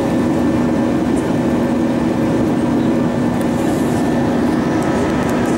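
Steady cabin drone of an Airbus A320-232 in flight: engine and airflow noise from its IAE V2500 engines, with a constant low hum.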